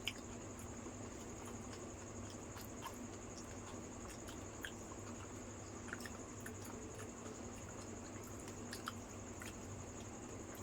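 Faint, wet chewing and small squishy clicks of people eating yogurt-filled puris (doi fuchka), scattered irregularly. Beneath them run a steady low hum and a high-pitched whine.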